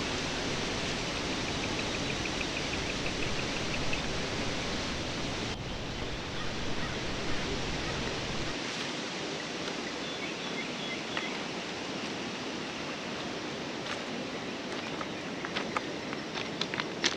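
Outdoor ambience: a steady hiss with a quick, rapid trill of chirps in the first few seconds and short bird chirps later on.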